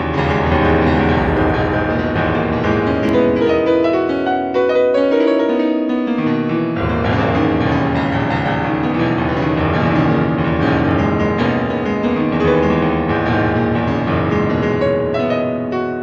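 Background piano music: steady sustained chords with a moving bass line that drops out briefly partway through.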